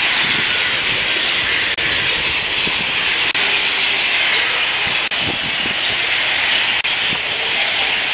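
Steady rushing hiss of heavy rain, with very brief dropouts about every one and a half seconds.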